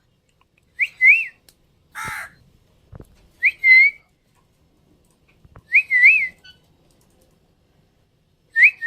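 Short, clear two-note whistles, each pair rising and falling, repeated four times a few seconds apart. A brief harsh squawk comes about two seconds in.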